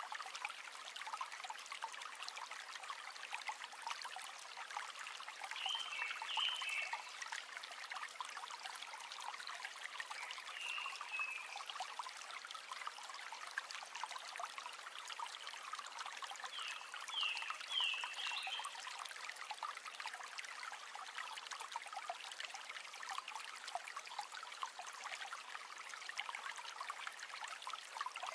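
River water flowing and babbling over rocks, a steady rushing trickle without low rumble. A few brief high chirps come through now and then.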